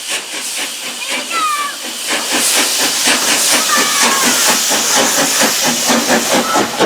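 Steam locomotive working, its exhaust beating rapidly under a steady hiss of steam that swells louder about two seconds in.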